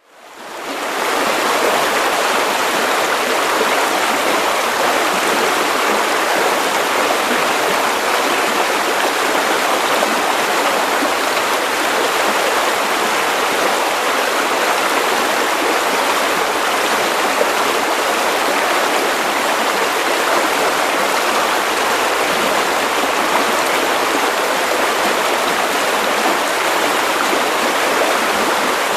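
Steady white noise, a constant even hiss with little bass, fading in over the first second or two and then holding level.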